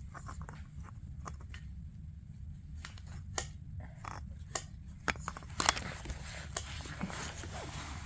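Scattered light clicks and a stretch of scraping or rustling, like small parts being handled, over a low steady hum.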